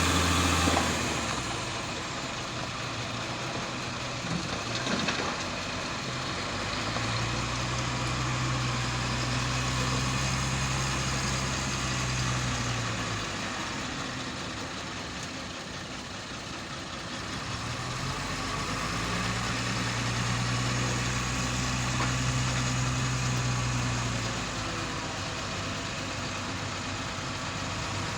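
Heavy vehicle engine running steadily, its revs rising twice and holding for about six seconds each time before dropping back to idle. A louder low engine sound cuts off about a second in.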